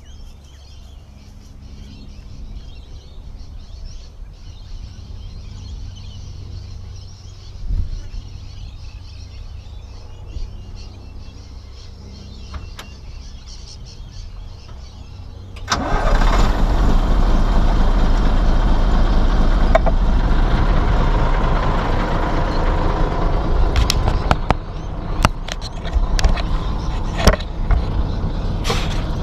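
Diesel engine of earthmoving machinery running at a low, steady level; a little past halfway a much louder engine noise begins suddenly and runs on steadily, with several sharp knocks near the end.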